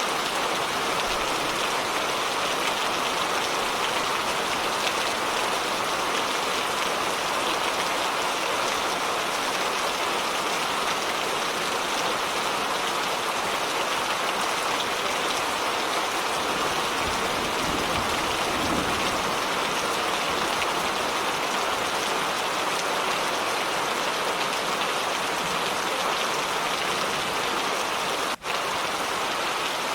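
Steady heavy rain falling, an even hiss of countless drops with no let-up. It cuts out for a split second near the end.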